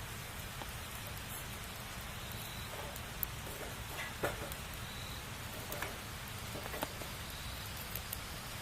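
Wood fire burning with a steady soft hiss and scattered crackles and pops; the sharpest snap comes about four seconds in.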